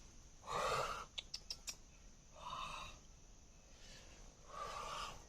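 Three short pitched animal calls, each about half a second long and spaced about two seconds apart, with a few faint sharp clicks between the first two.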